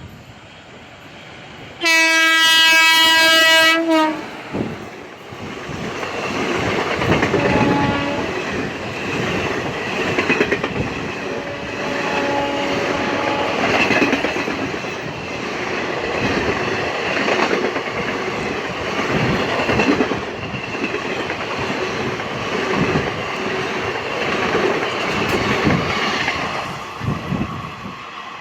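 An Indian Railways locomotive horn sounds loudly once for about two seconds. An express train then passes at speed, its wheels clattering over the rail joints, with two fainter horn notes partway through.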